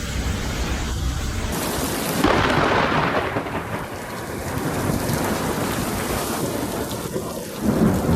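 Storm noise: heavy rain with a deep rumble like rolling thunder, swelling about two seconds in.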